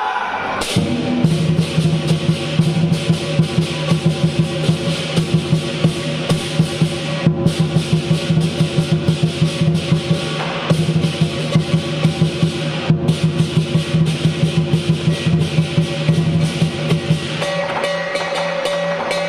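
Lion dance percussion: a large drum beaten in a fast, driving rhythm with clashing cymbals, broken by a few brief pauses.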